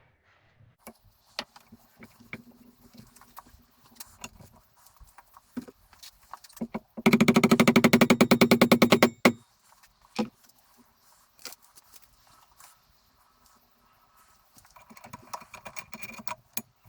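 Workshop reassembly sounds: scattered small metal clicks and knocks of parts being handled. About seven seconds in comes a loud, rapid, even rattle from a tool, lasting a little over two seconds.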